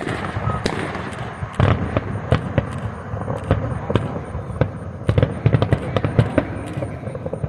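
Fireworks going off, a rapid run of sharp bangs and crackles, several a second, with no pause.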